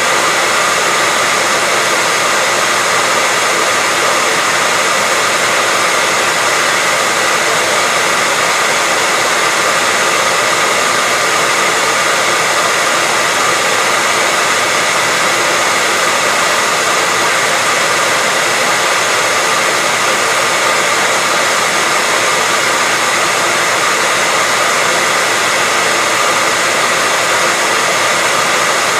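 Hair dryer running steadily: a constant airy rush of blown air with a faint steady whine in it, unchanging throughout.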